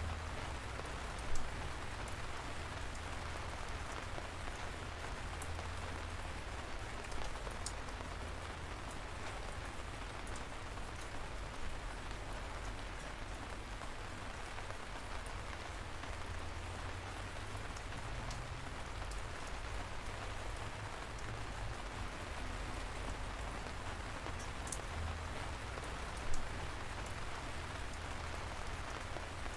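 Steady light rain falling, a soft even patter with a low rumble underneath and occasional single louder drops, two of them standing out about a second in and near the end.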